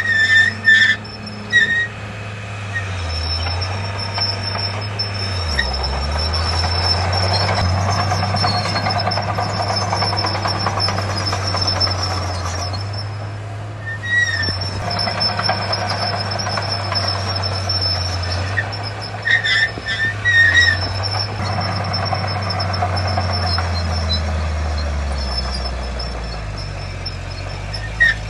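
Heavy diesel earthmoving machinery running steadily. The engine note dips and rises again a few times, and short high-pitched squeals come and go.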